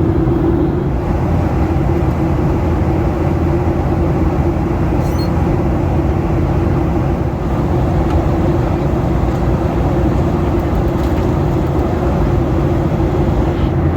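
Steady cabin noise inside a Boeing 737: the jet engines and air around the fuselage making a constant rush with a low droning hum.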